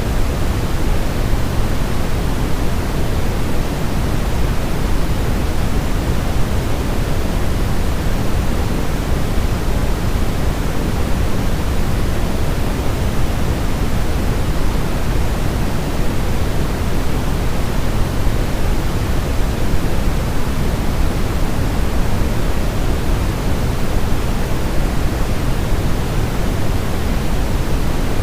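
Steady, unbroken white noise for baby sleep, weighted toward the low end so it sounds deep like pink noise.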